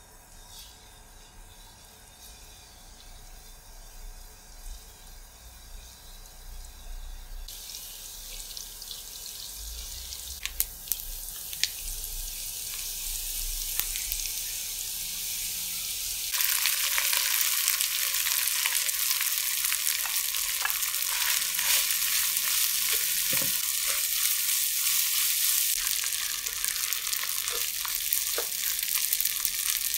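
Cubes of salted fish frying in peanut oil in a wok: a sizzle that starts faint and grows, jumping louder about a quarter of the way in and again past halfway, with a few sharp taps and scrapes from a spatula stirring. By the end cooked rice is being stir-fried in the hot oil.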